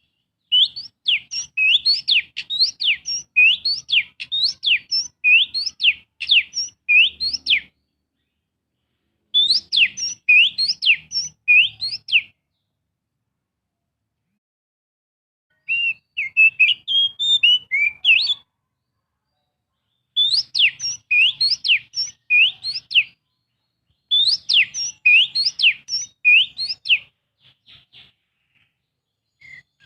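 Oriental magpie-robin (kacer) singing a lure song in five bouts of repeated, sharply falling whistled notes, about two a second, with short silent pauses between bouts. The song is meant to provoke a captive magpie-robin into singing.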